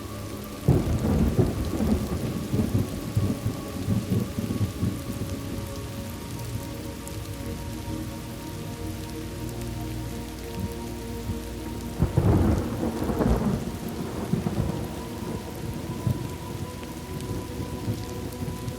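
Thunderstorm ambience: steady rain falling, with two claps of thunder, one about a second in and another about halfway through, each rumbling away over a few seconds.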